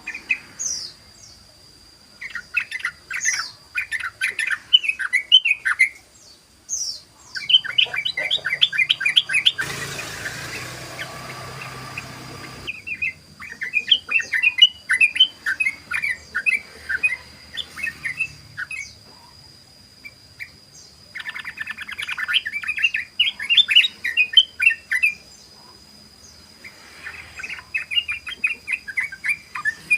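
Sooty-headed bulbul (trucukan) singing its rapid 'ropel' chatter, in bursts of quick notes a few seconds long separated by short pauses. A steady high tone runs underneath, and a hiss of noise comes in for about three seconds around ten seconds in.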